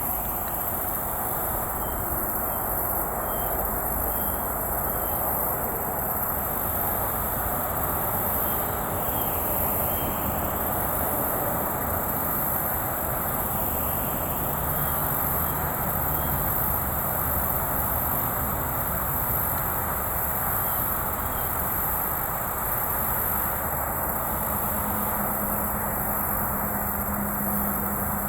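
Steady rumble of distant highway traffic, with a high, steady insect drone over it and a few faint short chirps. A low hum joins near the end.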